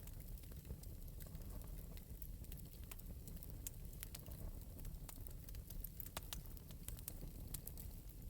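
Wood fire in an open metal fireplace crackling: scattered sharp pops and snaps over a low steady rumble of flame.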